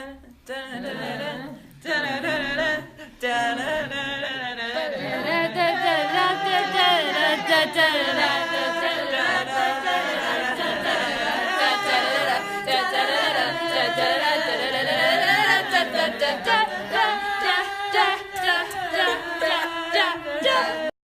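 An a cappella vocal group singing in harmony, several voices over a low bass part; the singing stops abruptly near the end.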